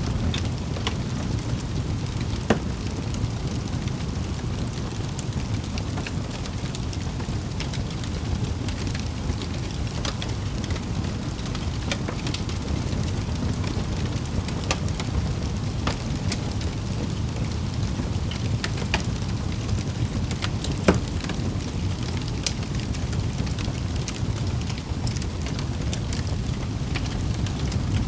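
Wood fire in a fireplace burning with a steady low rumble and scattered sharp crackles and pops, the loudest pop about three-quarters of the way through.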